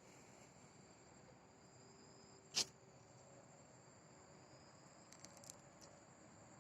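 Faint, steady chirring of insects in two high tones, with one sharp click about two and a half seconds in and a few faint ticks near the end.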